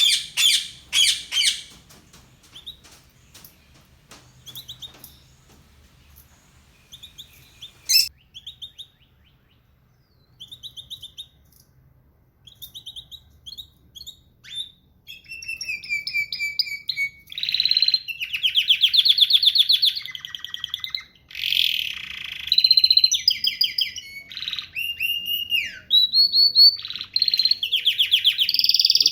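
Songbirds calling and singing: scattered short chirps and calls in the first half, then from about halfway through a dense, continuous run of whistles and trills.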